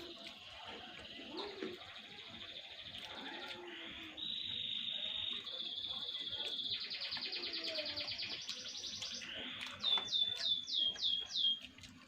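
A songbird singing: a long run of fast trills that step up in pitch, then about seven quick falling whistled notes near the end.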